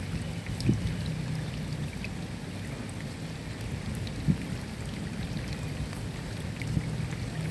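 Steady rain with a low rumbling undertone and scattered ticks of individual drops. Two louder drop hits land about a second and about four seconds in.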